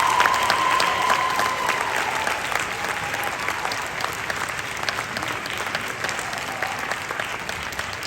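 Audience applauding after a performance. A long high-pitched tone rides over the clapping at first and dies away about two seconds in.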